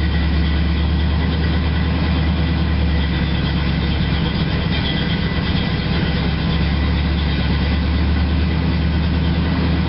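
1988 Chevrolet Caprice Classic's carbureted 5.0-litre V8 with four-barrel carburettor idling steadily, just after a cold start.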